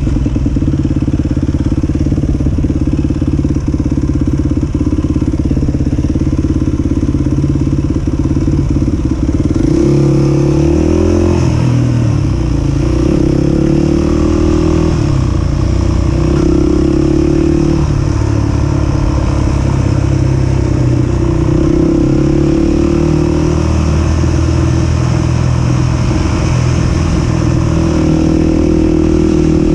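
250 cc single-cylinder four-stroke dirt bike engine running under load, held fairly steady at first, then its pitch rises and falls again and again with the throttle and gear changes.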